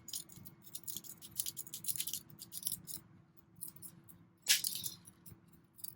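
Light clicking and rattling of small hard objects, with one louder scratchy swish about four and a half seconds in.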